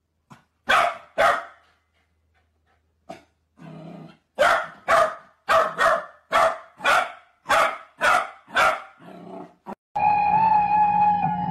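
A corgi barking: two sharp barks, a pause of a couple of seconds, then a steady run of about nine barks at roughly two a second. A long held note starts near the end.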